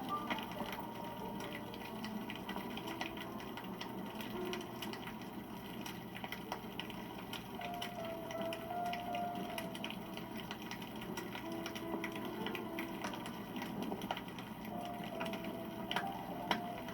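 Wood fire crackling steadily, with many small irregular pops and snaps over a low rushing hiss of flame.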